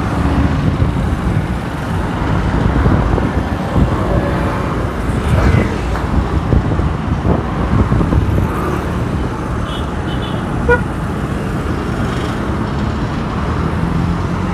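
City road traffic heard from a moving motorbike: a steady rumble of engines and tyres, with a short horn beep about ten seconds in.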